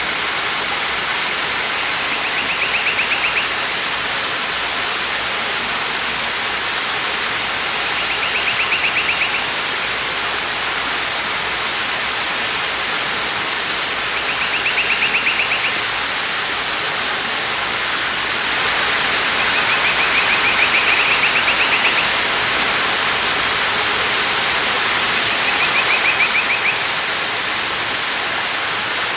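Waterfall's steady rush of falling water. A bird's short, high trill repeats about every six seconds above it.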